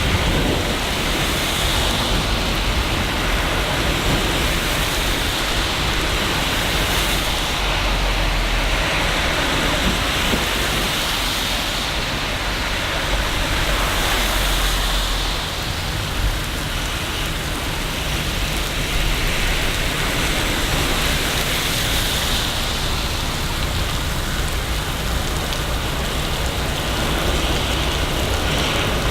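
Steady rain in a city: a constant loud hiss of rainfall with a deep low rumble underneath and slow swells in the higher hiss.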